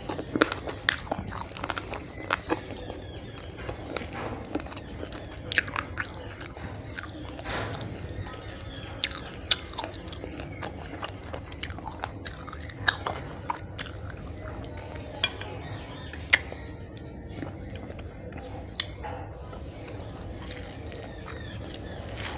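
Close-miked chewing and mouth sounds of a person eating rice mixed with banana-flower curry (mochar ghonto) by hand: wet smacks and irregular sharp clicks, growing sparser toward the end.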